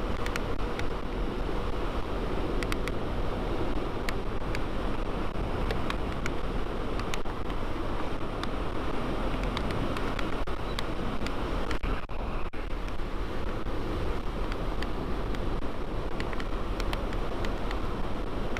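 Steady wind rush over the microphone with the drone of a Yamaha Vino 125 scooter's single-cylinder four-stroke engine, cruising at a steady speed.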